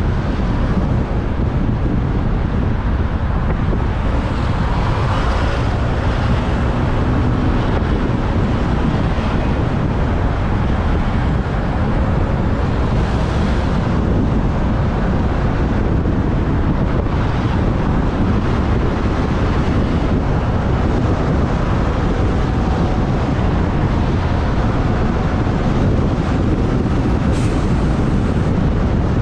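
Wind buffeting the microphone of a moving motorbike, with the motorbike's engine and surrounding traffic running underneath at a steady level. A brief sharp high-pitched sound comes near the end.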